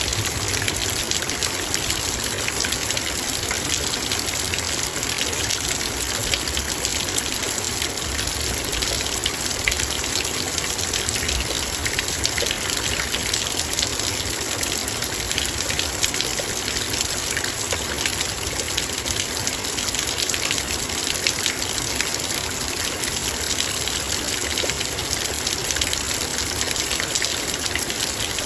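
Heavy rain falling steadily on a metal bowl: a dense hiss made of countless small drop strikes.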